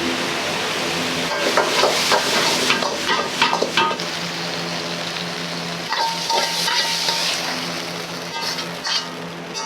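Food sizzling and frying in a wok, with a metal ladle clanking and scraping against it in two busy spells, over a steady low hum.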